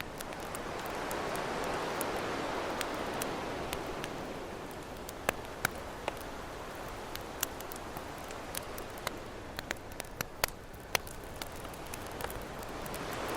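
Campfire crackling with sharp, scattered pops over ocean waves washing in. One wave swells about a second in and fades, and another builds near the end.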